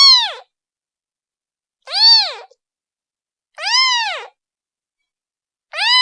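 A day-old kitten meowing to call its mother: short high cries, each rising then falling in pitch, about one every two seconds with silence between.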